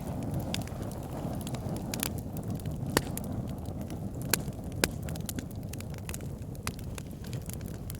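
Wood fire burning in a fireplace: a steady low roar of flames with irregular sharp crackles and pops from the burning wood, a few louder pops standing out.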